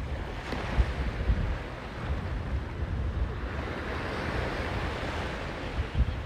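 Sea surf washing in on the beach, the hiss of a wave swelling up around the middle, with gusts of wind buffeting the microphone.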